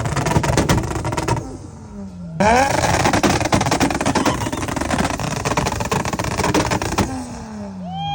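Car engine revved hard with crackling exhaust pops. It is loud at first, dies back after about a second and a half, then is revved up again and held before cutting off near the end with the revs falling.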